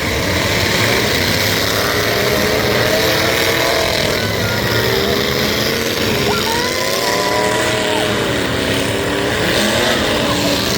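Several demolition-derby trucks' engines running and revving hard, their pitch rising and falling as they drive and push against each other.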